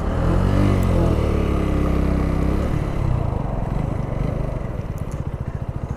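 Motorcycle engine under way at low speed, its revs rising and falling over the first few seconds, then settling into a slow, even pulsing beat.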